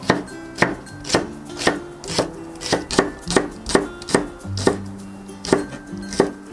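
Kitchen knife thinly slicing a Korean green onion on a wooden cutting board, each cut ending in a knock of the blade on the board. The cuts come in a steady run of about two a second.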